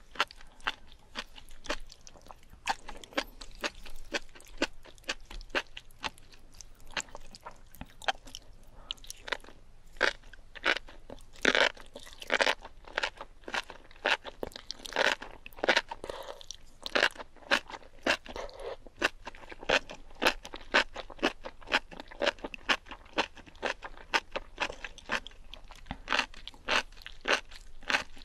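Close-miked eating of enoki mushrooms in spicy sauce: rapid, crunchy, wet chewing clicks, with louder, longer stretches of mouth noise about halfway through.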